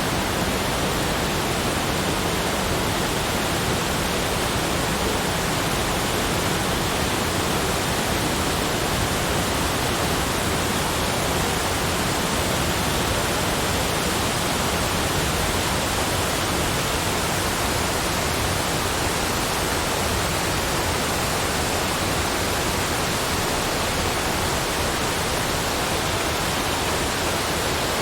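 Steady, unchanging rushing noise, spread evenly from deep to high.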